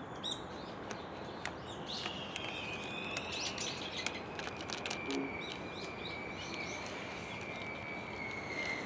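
Wild birds chirping in short scattered calls over faint outdoor background noise. A thin, steady high tone comes in about two seconds in and holds to the end.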